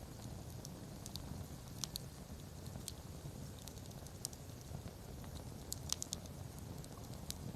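Wood campfire crackling: irregular sharp pops and snaps over a low steady rumble, with the loudest pop about six seconds in.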